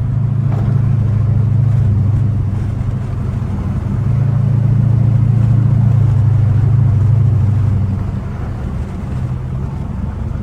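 Chrysler 300's Hemi V8 engine droning steadily under load as the car drives on, easing off about eight seconds in.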